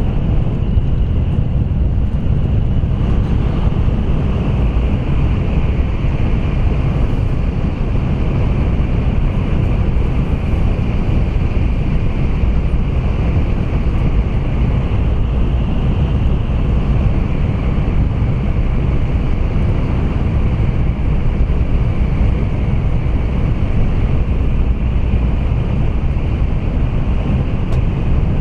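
Running noise of an N700A Tokaido Shinkansen train at speed in a tunnel, heard inside the Green car: a steady low rumble with a hiss on top.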